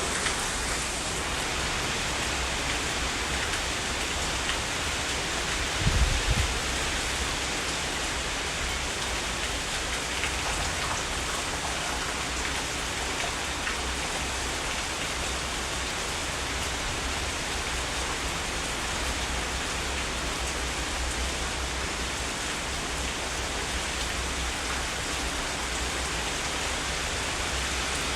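Heavy rain falling steadily, a dense even hiss of drops on leaves and ground. About six seconds in there is one brief low thump.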